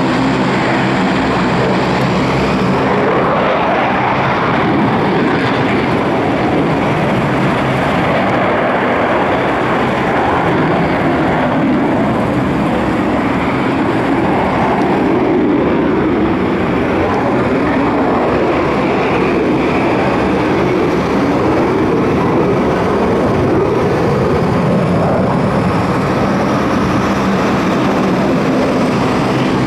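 Propeller airplane engine droning in flight, its pitch rising and then falling as it passes by.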